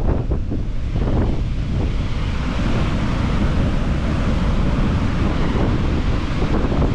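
Dettifoss waterfall's heavy, steady rush of falling water, with wind buffeting the microphone, most in the first second or so.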